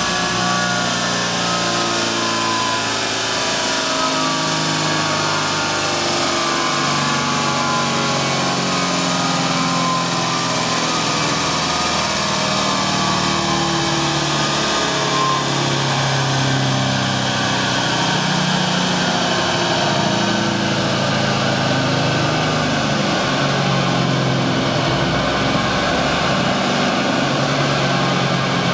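A 1999–2004 Ford Mustang's engine running on a chassis dyno, steady and loud, its pitch drifting slowly up and down rather than sweeping through a full pull.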